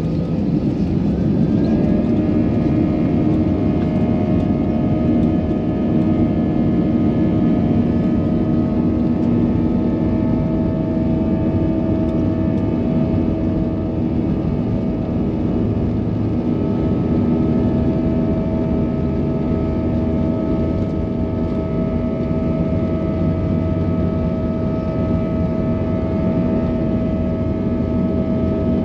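Airbus A320-232's IAE V2500 turbofan engines at takeoff power, heard from inside the cabin: a loud steady roar with a steady whine that sets in about a second and a half in as thrust comes up.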